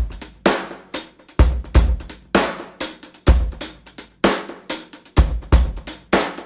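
Drum kit playing a steady beat on its own: kick-drum thumps and snare hits with cymbals, about two hits a second.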